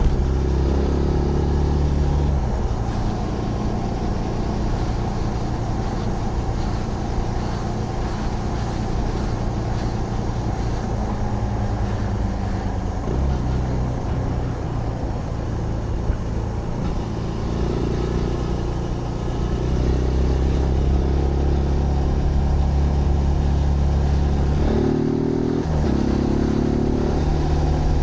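Zontes GK 125 motorcycle's 125cc single-cylinder engine running under way, its pitch holding steady for long stretches and shifting in steps a couple of times. Near the end it revs up in several quick rising sweeps, over a steady rush of wind and road noise.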